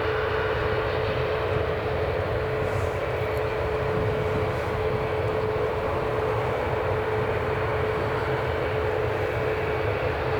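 Jet airliner engines running steadily: a constant whine just under 500 Hz over an even rush and low rumble.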